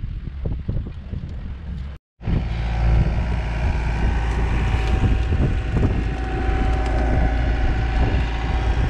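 Wind buffeting the microphone for about two seconds, then, after a sudden cut, an engine running steadily and loudly close by.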